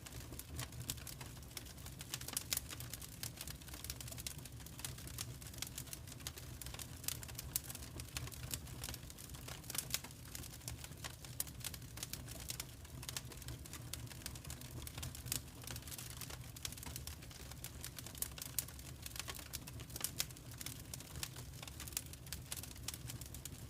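Wood fire crackling in a fireplace: dense, irregular pops and snaps over a steady low rumble of the burning logs.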